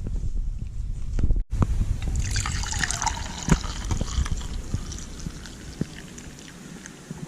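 Liquid pouring and trickling into a container, starting about two seconds in, with scattered small clicks and knocks.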